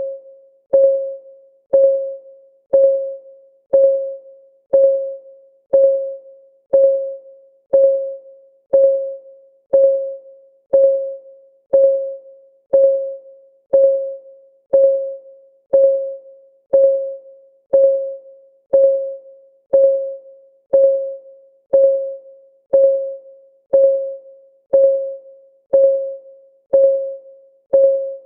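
Timer's clock-ticking sound: a steady one tick per second, each tick a short pitched tone that dies away quickly.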